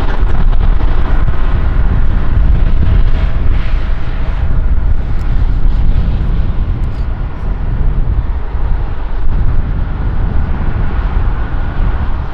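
Airbus A330 jet engines at high power: a loud, steady, deep rumble, with a faint whine that fades over the first few seconds.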